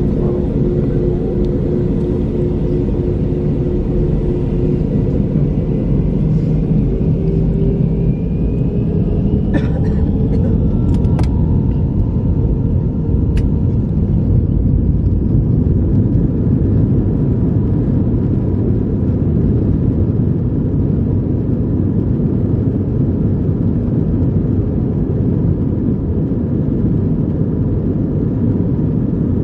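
Airbus A321 jet engines heard from inside the cabin over a steady loud rumble, their whine rising in pitch over several seconds as they spool up. The rise is typical of engines going to takeoff thrust. A few sharp clicks come about a third of the way in.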